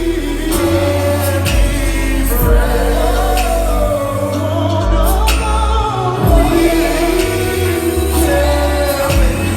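Live R&B music: sung vocals over steady bass notes and drum hits.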